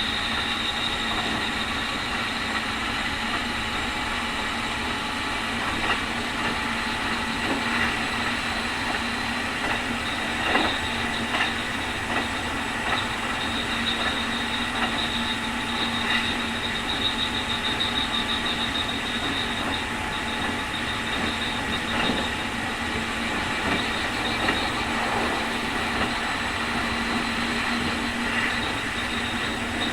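Keikyu 2000 series field-chopper electric train running at speed, heard inside the car. Wheel and rail noise runs under a steady high whine: the so-called 'jet sound', an unusually strong abnormal noise for which this car is known. A few light knocks come through.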